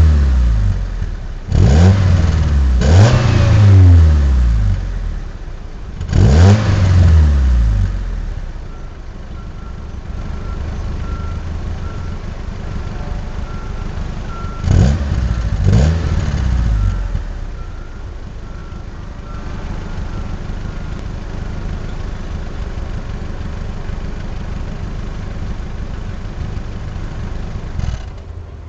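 Fiat Panda mk1's 1100 cc four-cylinder engine, warm, breathing through a Ragazzon stainless-steel exhaust: blipped sharply several times, each rev falling back to idle, then a long steady idle with two more quick blips midway.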